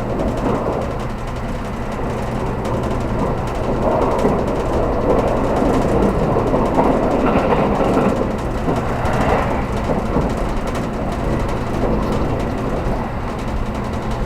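Cabin noise inside a 783 series limited express electric train: a steady rumble with a low hum underneath, swelling slightly partway through.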